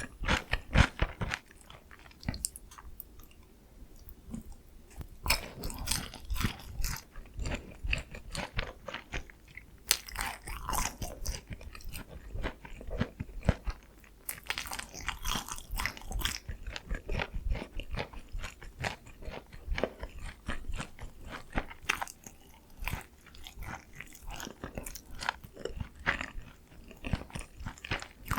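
Close-miked biting and chewing of sweet soy-glazed Korean fried chicken (dakgangjeong): crisp, irregular crunches of the fried coating, some bites louder and longer, with wet chewing between.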